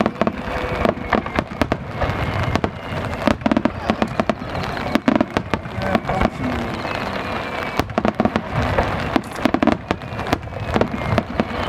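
Fireworks shells bursting in rapid, dense succession: many sharp bangs and crackles close together, with people's voices underneath.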